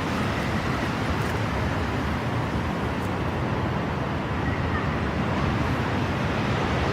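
Strong wind blowing and buffeting the microphone, a steady, loud low rumbling rush.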